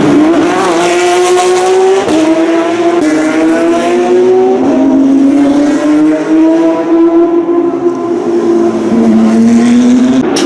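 Porsche 911 GT3 Cup race car flat-six engines running at high revs. Their pitch climbs under acceleration and drops sharply at each upshift, several times over.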